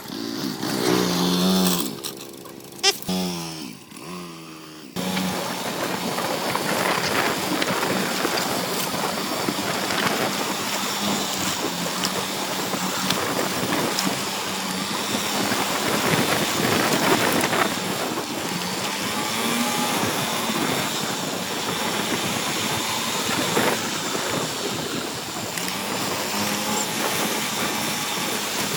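A motor vehicle engine revving up and down for the first few seconds, then a sudden change to a steady, loud running noise.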